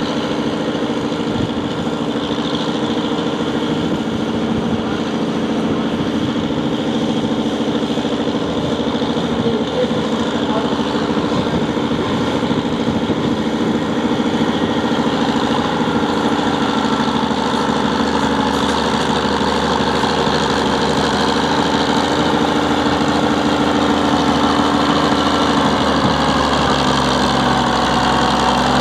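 Antique farm tractor engine running steadily at a pull, growing gradually louder, its pitch sagging slightly in the last few seconds.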